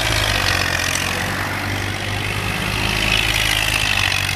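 Tractor engine running steadily at an even speed, a constant low hum with a hiss above it.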